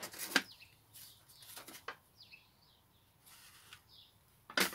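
A few short bird chirps in the background, with brief rustles of handling at the start and again near the end.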